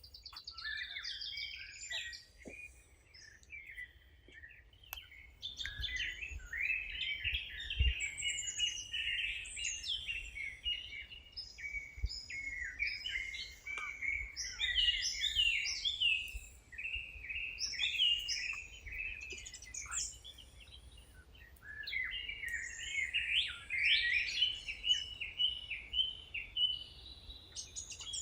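Wild birds singing and chirping together, a dense chorus of quick, high, overlapping phrases that thins out briefly twice.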